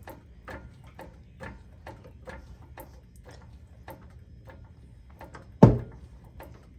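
Pittsburgh 3-ton low-profile floor jack being pumped to lift a truck: a regular click about twice a second from the handle strokes, with one much louder clunk about five and a half seconds in.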